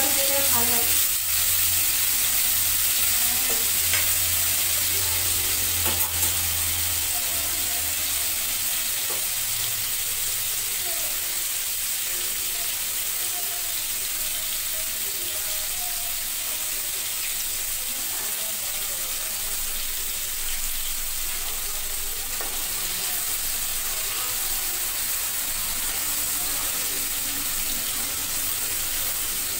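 Paneer cubes frying in hot oil in a pan, a steady sizzle, with a few sharp clicks in the first six seconds.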